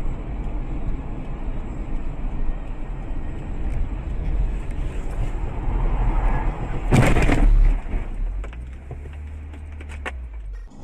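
Car driving, its engine and tyre noise heard through a dash camera, with a sudden loud crash about seven seconds in that lasts under a second, followed by a quieter steady low hum.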